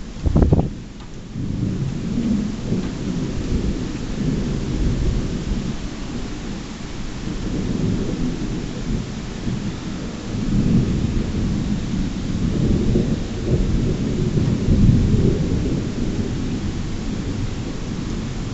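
Thunder from a severe thunderstorm: a loud crack about half a second in, then long low rolling rumbles that swell several times, over steady heavy rain.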